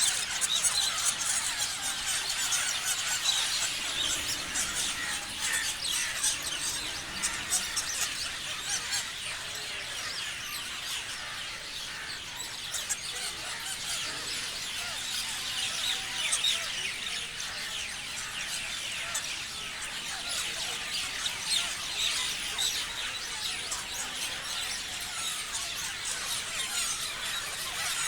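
A flock of parrots calling together: many overlapping shrill chirps and screeches with no break.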